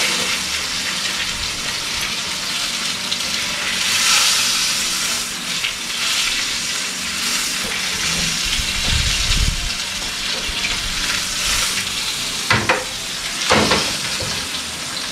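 Fish searing in hot oil in a frying pan, sizzling steadily and swelling now and then as a spoon works in the pan, with a couple of sharp clicks near the end.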